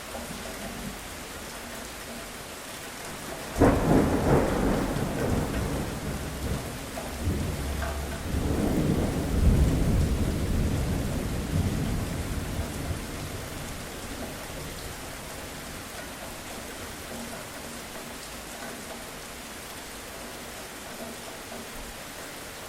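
Steady rain with a thunderclap: a sudden crack about four seconds in, then a second deep rolling swell that dies away into the rain over several seconds.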